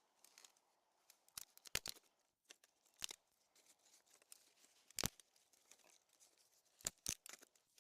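Small dry twigs snapping and rustling as they are broken and gathered for kindling: a handful of separate sharp cracks over faint crackly handling.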